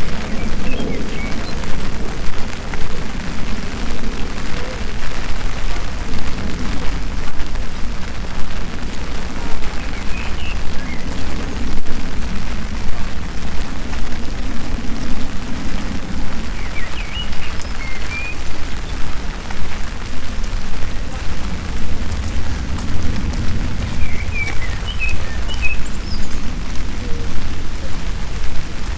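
Steady rain falling, over a deep continuous low rumble, with a few short high bird chirps every several seconds.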